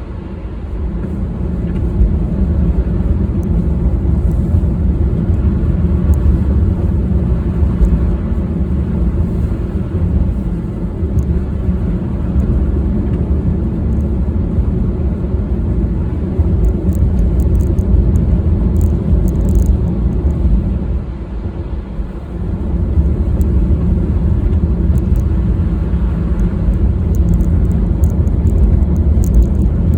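Car driving, a steady low rumble of engine and road noise that eases off briefly about two thirds of the way through.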